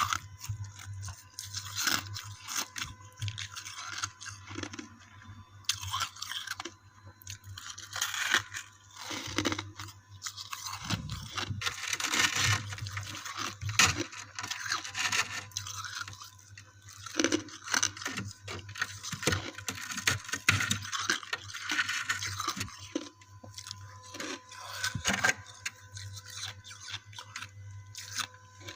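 Close-up biting and chewing of frosty ice chunks, with repeated sharp, irregular crunches and squeaks.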